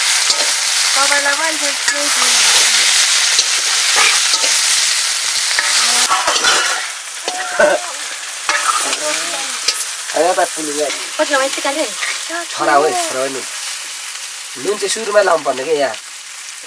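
Boiled potatoes frying in oil in a pan, sizzling while they are stirred, with scattered spoon clicks against the pan. The sizzle is loud for the first six seconds or so, then drops to a quieter sizzle.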